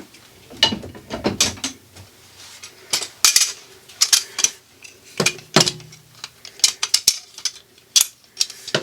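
Power drill with a stepped-point bit working into a steel electrical box held in pliers: a faint steady motor hum under irregular sharp clicks and rattles as the bit grabs and chatters in the sheet steel.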